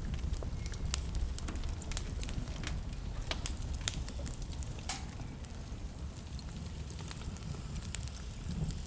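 Wood fire crackling: a steady low rumble of flames with sharp, irregular pops and snaps, more frequent in the first half.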